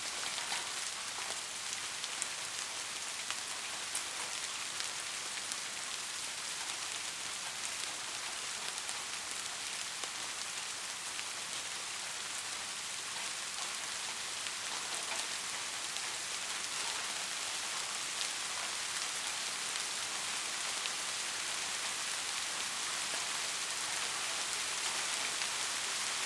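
Heavy rain falling steadily: an even hiss dotted with many small drop ticks, growing slightly louder toward the end.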